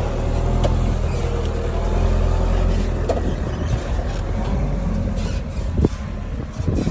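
Loaded sugarcane truck's diesel engine running with a steady low drone, with a sharp knock a little before six seconds in.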